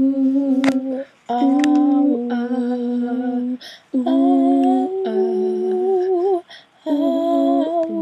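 Two female voices humming a slow intro in harmony: long held notes, each a second or more, stepping to new pitches, with short breaks between phrases.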